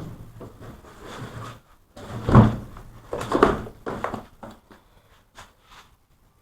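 A door being handled: a series of loud clunks and rattles, about three in the middle, then it goes quiet.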